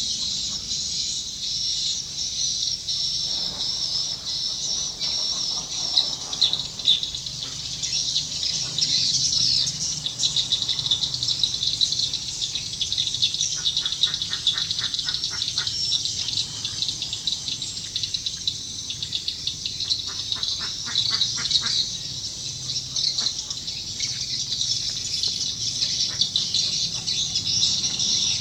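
Swiftlets twittering: a dense, continuous high chattering of many edible-nest swiftlets, the sort of call recording played to lure swiftlets into a swiftlet house. A lower, fast rattling call comes twice in the middle.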